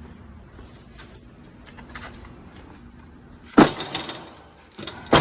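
A loud knock about three and a half seconds in, fading over about half a second, and another sharp knock near the end, over a faint steady background.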